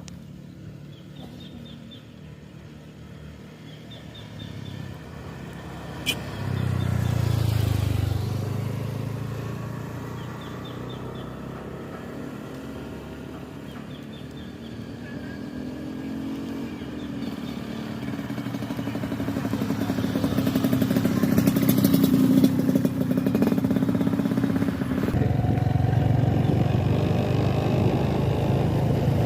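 Motorcycle engines running and passing, swelling about six seconds in and again over the second half, with the pitch rising and falling. A short, high chirp repeats every few seconds in the first half.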